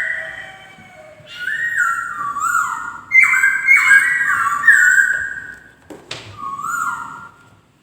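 Poksay (laughingthrush) singing: several phrases of loud, clear whistled notes that step upward in pitch, with a short click about six seconds in.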